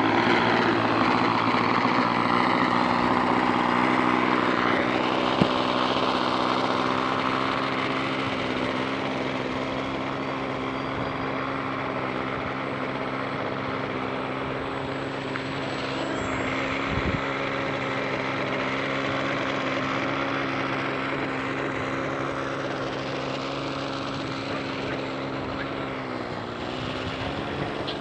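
Petrol-engine radio-controlled model airplane with a single propeller, flying with its small engine buzzing steadily; its pitch dips and rises briefly near the end as the plane turns or passes.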